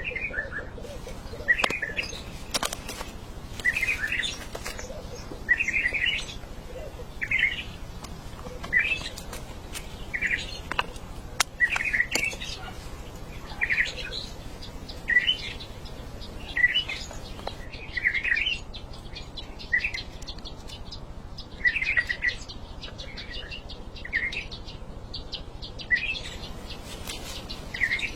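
A bird calling over and over, short chirps repeated about every second and a half, with a few sharp ticks between them over a steady low background hiss.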